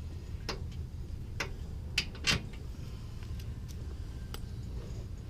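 Scattered metallic clicks and knocks from hand tools working on the old upper control arm, over a steady low hum. There are about five clicks, with the loudest two close together about two seconds in.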